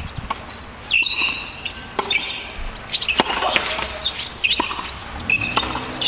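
Small birds chirping repeatedly in short, high, pitch-bending calls, with a few sharp knocks in between.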